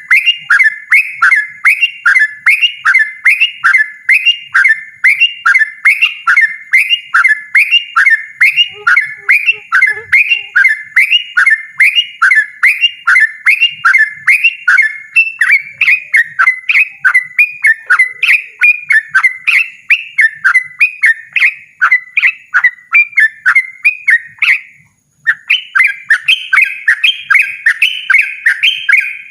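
Yellow-vented bulbul (trucukan) singing loudly and persistently: a fast, unbroken run of short repeated chirping notes, about three a second, with one brief pause near the end before it starts again.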